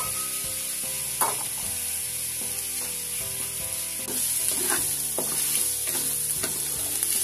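Beef pieces sizzling in a hot wok with garlic and onions while being sautéed, a wooden spatula stirring and scraping against the pan. A sharp knock comes about a second in, and the sizzling and scraping get louder about four seconds in.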